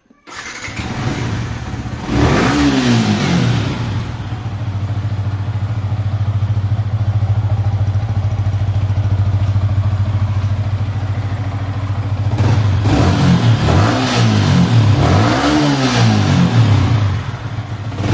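Yamaha R15 V3's 155 cc single-cylinder engine starting, then idling steadily through its exhaust. There is one short rev about two seconds in, and a run of four quick throttle blips near the end.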